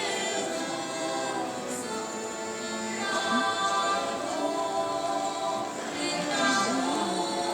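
Russian folk choir singing, many voices held together in harmony with pitches bending between notes.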